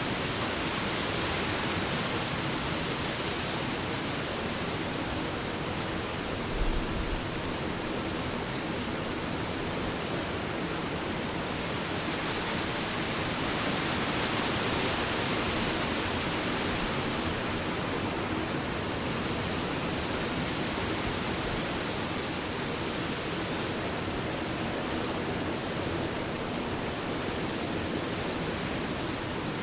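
Ocean surf washing on a beach: a steady, even rush of wave noise that swells and eases gently, with one brief low thump about seven seconds in.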